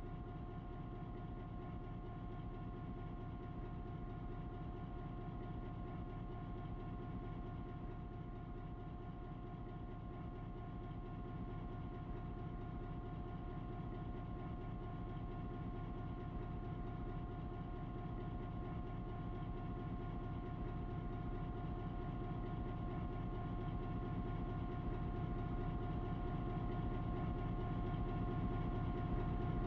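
Railway locomotive running with a steady low rumble and a steady whine above it, slowly getting louder.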